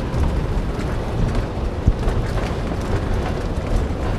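Steady low rumble of a bus driving along the highway, heard from inside the cabin, with a single sharp click about two seconds in.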